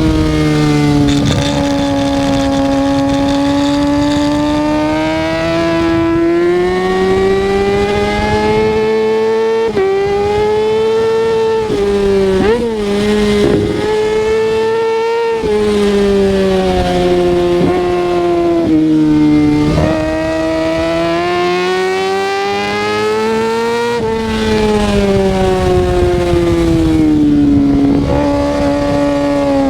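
Kawasaki ZX-6R 636's inline-four engine under way, revving up and easing off again and again, its pitch rising and falling, with several sudden jumps in pitch as it changes gear.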